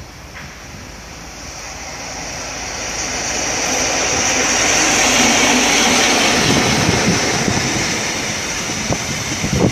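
A train approaching and passing at speed, its roar swelling for about five seconds with a strong high hiss, then the rapid clatter of wheels over the rail joints from about two-thirds of the way in.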